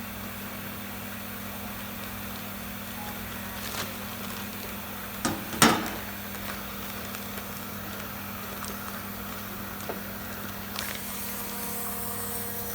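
Vacuum packaging machine running with a steady low hum, broken by a few light clicks and a loud double clunk about five and a half seconds in.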